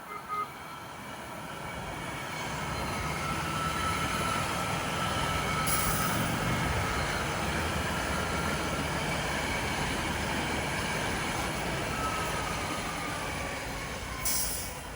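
BART train running at the station platform, getting louder over the first few seconds and staying loud, with a thin high whine that falls in pitch near the end. Two short hisses, one about six seconds in and one near the end.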